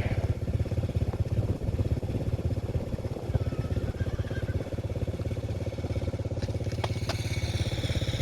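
A vehicle's engine idling steadily, with an even, rapid low pulse, and a few faint clicks near the end.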